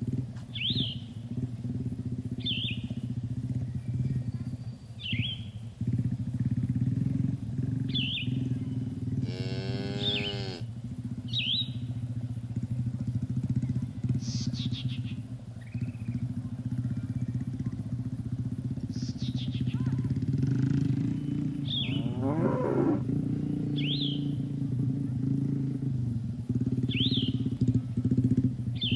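Cattle mooing twice, one call about a third of the way in and a wavering one about three-quarters through, over a steady low hum. A small bird gives a short high chirp every two to three seconds.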